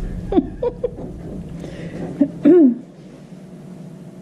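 A pet giving several short, bending whines, the last and loudest about two and a half seconds in, over a steady low hum that fades out soon after.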